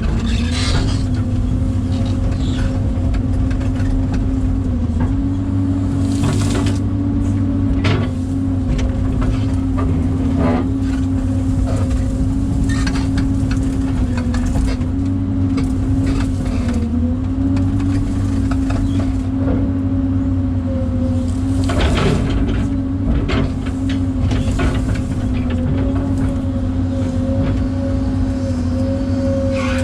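Excavator's diesel engine running steadily under load, its pitch sagging briefly now and then as the hydraulics work, with scattered clanks and knocks from the machine at work.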